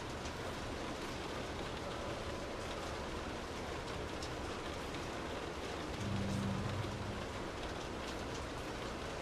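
Steady rain falling, a dense even patter of drops. About six seconds in, a low rumble swells briefly for about a second and fades.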